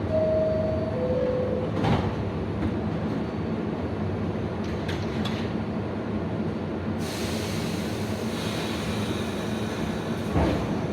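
New York City subway train at an elevated station: a two-note falling chime about a second and a half long at the start, over the steady rumble of the cars. From about seven seconds in, wheel and track noise grows louder and hissier as train movement picks up.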